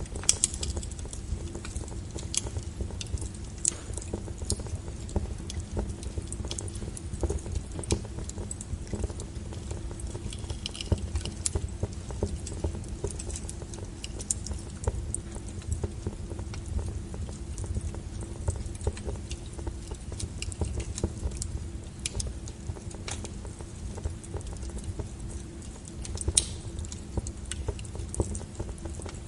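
Wood fire crackling: irregular snaps and pops of burning logs over a steady low rumble, with a sharper pop about three-quarters of the way through.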